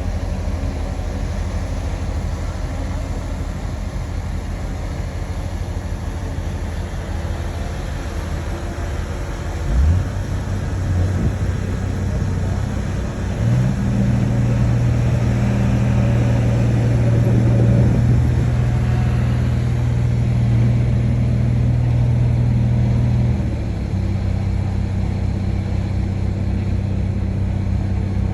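Shantui bulldozer's diesel engine running steadily, then revving up about ten seconds in and holding at a higher pitch under load for about ten seconds before dropping back to its lower pitch.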